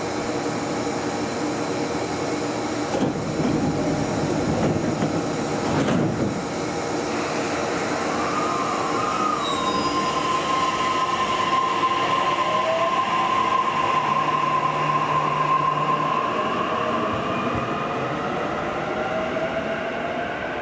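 Electric train at a station platform: a rumble with heavier knocks in the first few seconds, then a steady whine joined by further whines that climb in pitch, as the train's traction motors pick up speed pulling away.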